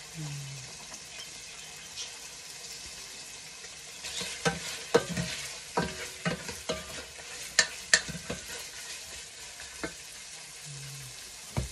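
Carrots, onions, bell pepper and pork liver sautéing in a non-stick pot with a steady frying hiss. From about four seconds in, a utensil stirring the pot scrapes and knocks against it in a run of sharp clicks.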